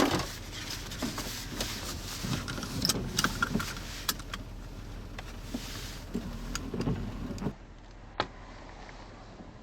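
Vehicle cabin noise: a steady low hum with scattered clicks and knocks. About three-quarters of the way through, the sound suddenly becomes duller and quieter.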